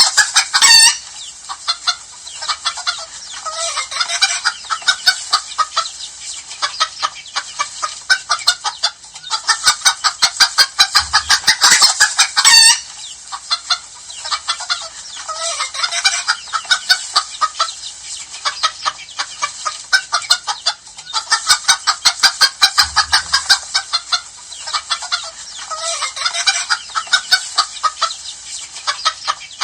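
A flock of hens clucking and cackling in a dense, continuous chorus of short calls, with two louder drawn-out calls, one at the start and one about twelve seconds in.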